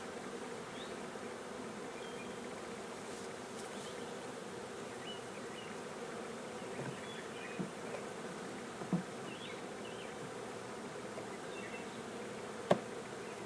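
Honeybee swarm buzzing steadily around an open hive box; the bees are disturbed by the hive being worked. Two faint knocks come midway, and a sharp click near the end.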